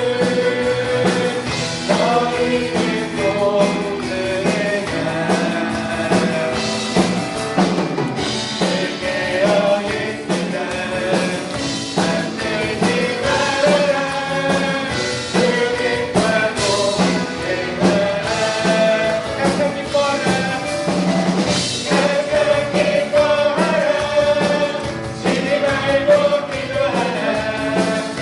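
A praise team singing a Christian worship song together, with band accompaniment and a steady beat.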